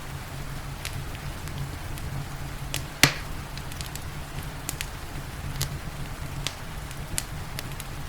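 Wood fire crackling, with scattered sharp pops and one loud pop about three seconds in, over a steady hiss of rain and a low rumble.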